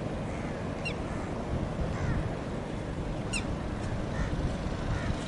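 Steady low outdoor rumble with a few short, high bird calls; the two clearest come about a second in and about three and a half seconds in.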